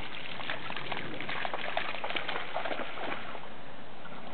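Irregular splashing and spattering in shallow standing water, as dogs run through the flooded ground.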